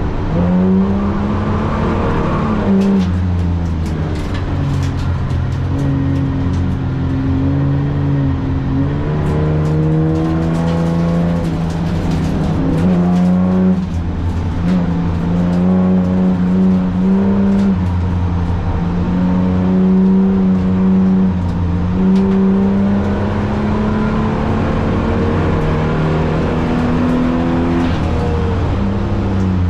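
Holden VT's 3.8-litre V6 driven hard, its note climbing under throttle and dropping back several times through the run as the revs rise and fall.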